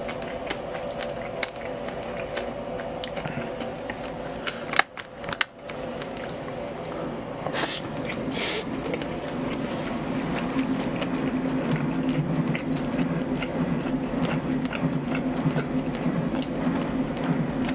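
Close-miked chewing of braised pig's trotters (jokbal): wet, squishy mouth noises and small clicks, with a sharper cluster of clicks about five seconds in. A steady low hum runs underneath.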